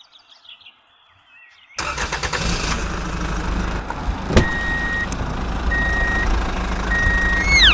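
A tractor engine starts running steadily about two seconds in with a deep rumble. Three reversing beeps about a second apart follow, then a short falling tone near the end.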